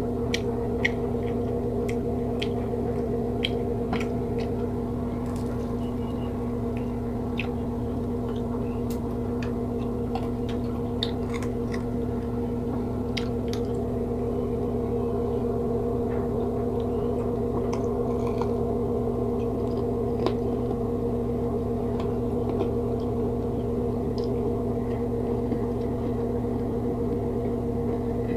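A person eating by hand close to the microphone: scattered small clicks and crunches of chewing fried pork, over a steady low hum that runs unbroken throughout.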